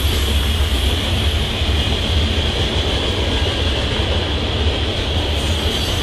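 Freight train cars rolling past close by: a steady low rumble of wheels on rail, with a constant high-pitched wheel noise above it.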